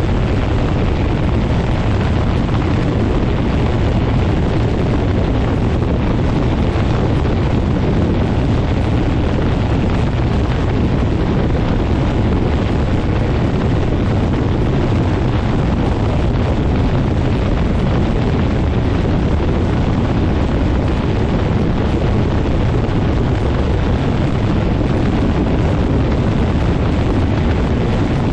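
Quicksilver MX ultralight's engine and pusher propeller running steadily under heavy prop blast and wind buffeting the microphone, with no change in power.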